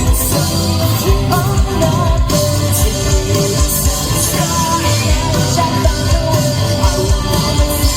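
Punk rock band playing live: drums keeping a steady beat under guitar, with a sung lead vocal over the top.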